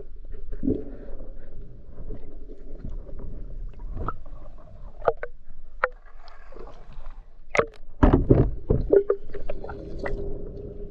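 Water sounds with gurgling and a low rumble, broken by a series of sharp clicks and knocks that cluster thickly near the end.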